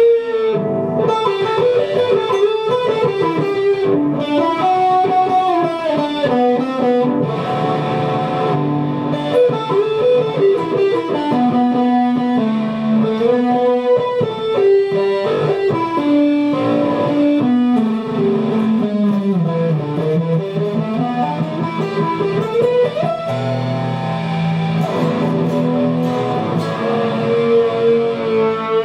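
Guitar music: a melodic electric guitar line with effects, stepping and sweeping up and down over a sustained bass part.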